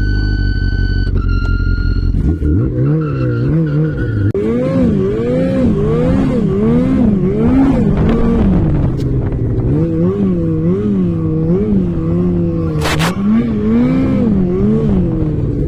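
Off-road vehicle engine revved up and down over and over, about once a second, as the wheels are worked to get the vehicle moving. It runs steadily with a high whine over it for about the first two seconds, and there are two sharp clicks near the end.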